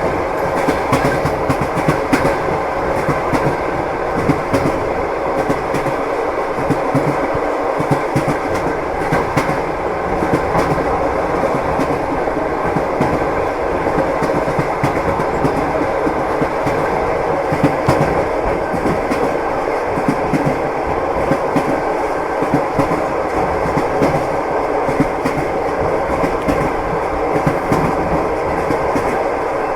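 Moving passenger train heard from inside the carriage: the wheels clicking and knocking over the rail joints over a steady running rumble.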